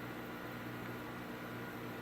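Steady hum and hiss of running aquarium equipment such as filters and air pumps.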